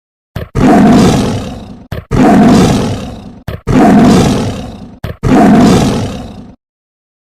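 A large wild animal roaring: four identical roars about a second and a half apart, each opening with a short click, starting abruptly and fading away.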